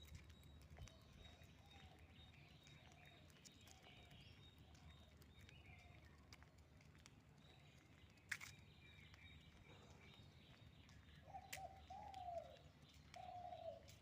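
Birds calling faintly: repeated short, low, arching coo-like notes that grow louder near the end, with faint higher chirps. A single sharp click sounds about eight seconds in.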